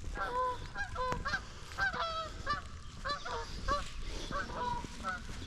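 Two geese honking, a rapid series of short calls at about three a second, some overlapping.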